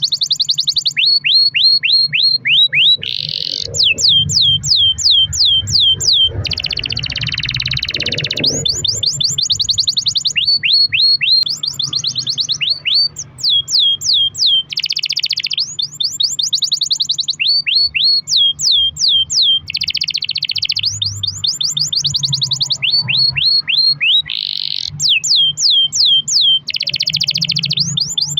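Domestic canary singing a long song of rapid repeated phrases: runs of quick down-slurred whistles, several a second, alternating with dense buzzy rolls.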